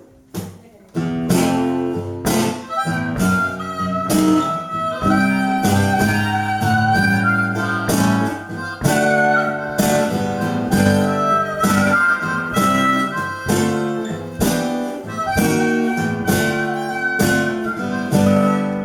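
Acoustic guitar strumming under a harmonica, playing the opening of a blues song live. It starts about a second in.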